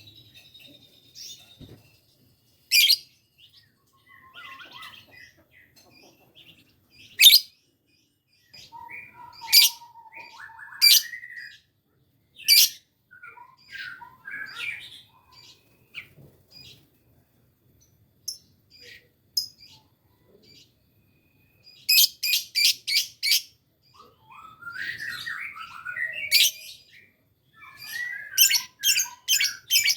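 Lovebird calling with single sharp, high chirps a few seconds apart, then quick runs of five or six chirps in a row about two-thirds of the way in and again near the end. These are a young lovebird's attempts at the long chattering ngekek trill.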